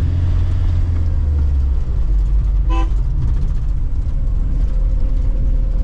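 Steady low rumble of a vehicle's engine and road noise while riding, with one short horn toot a little under three seconds in.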